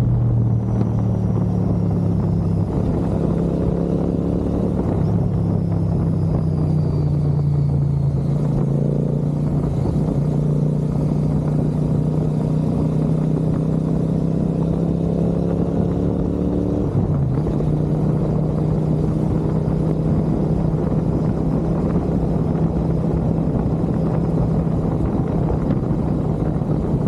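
Royal Enfield Continental GT 650's parallel-twin engine running through an aftermarket Gurusewak exhaust, holding a steady note that shifts slightly about 8 seconds in and dips briefly about 17 seconds in.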